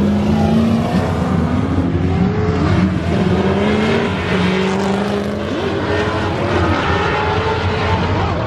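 Drift cars' engines running hard on a track, their pitch rising and falling as they rev, with more than one engine note overlapping.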